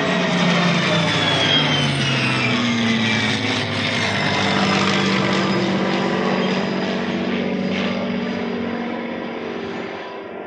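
Heritage Flight formation pass of a P-51D Mustang and an A-10C Thunderbolt II: the Mustang's piston engine and the A-10's turbofan whine sweep past, their pitch falling as they go by. The sound then eases off near the end.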